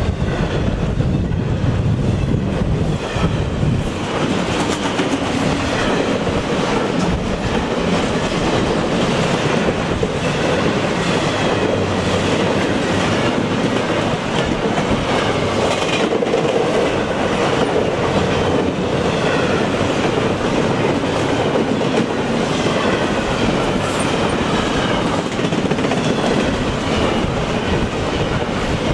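Double-stack container train of steel well cars rolling steadily past at close range: a continuous rumble of wheels on the rails with a rapid run of clicks as the wheel sets pass.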